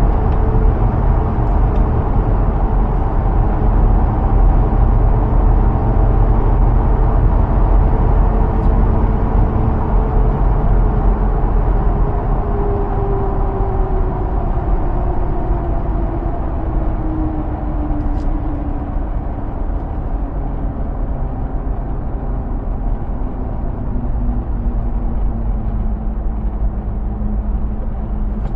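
Hummer H2's 6.0-litre V8 and road noise at speed, a steady heavy low rumble. About halfway through, a tone in the drone falls in pitch over several seconds and then holds lower as the sound eases slightly.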